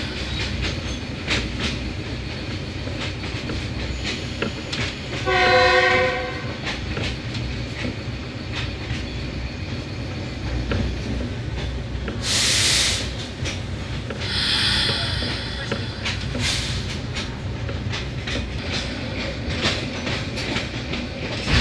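Passenger train running along the track, heard from on board: a steady rumble with the clickety-clack of wheels over rail joints. A horn sounds once for about a second, about five seconds in. Two short bursts of hiss come later, at around twelve and fifteen seconds.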